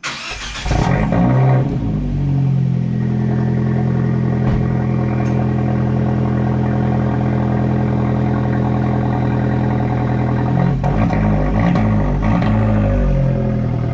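Fiat 124 Spider Abarth's 1.4-litre turbocharged four-cylinder starting up, with a brief flare in revs as it catches, then settling into a steady idle heard from behind the car at the exhaust tips. Near the end the note goes unsteady for a couple of seconds as the car is put into reverse.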